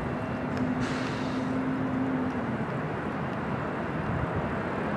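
Jet airliner engine noise: a steady rumble with a hum that drops slightly in pitch and fades after about two and a half seconds, and a brief hiss about a second in.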